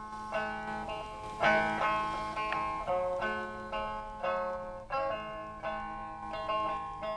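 Music played on a plucked string instrument: a slow melody of single notes, each plucked and left to ring and fade.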